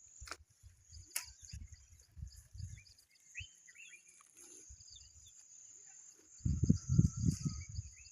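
Rural outdoor ambience: insects chirring steadily, with scattered bird chirps. Two sharp knocks come in the first second and a half, and a burst of low rumbling near the end.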